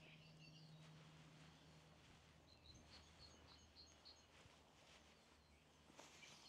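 Near silence with faint birdsong: a quick run of about seven high chirps around the middle, with a few fainter chirps near the start and the end.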